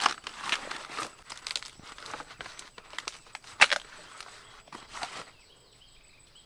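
Rustling and crackling of dry forest undergrowth being handled and stepped through, irregular, with one sharper snap about three and a half seconds in; it dies away about five seconds in.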